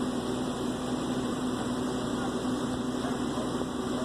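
A Ford F650 truck's gasoline engine running steadily, a constant hum.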